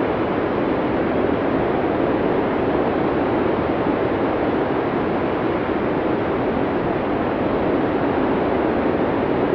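Blizzard wind: a steady, dense rush of noise that holds even, without distinct gusts or rising howls.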